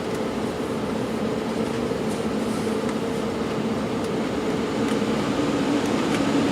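Embraer 195-E2 jet engine and cabin air noise heard from inside the cabin: a steady drone carrying two held tones, growing a little louder near the end as a new tone comes in.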